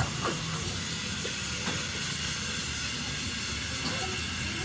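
A steady hissing noise with faint high steady tones, and a few light clicks near the start.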